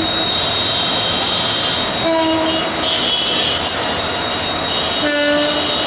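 Diesel-hauled passenger train running slowly around a curve: a steady rumble of wheels on rail with a thin, high, steady wheel squeal. Two short horn blasts sound, about two seconds in and again near the end.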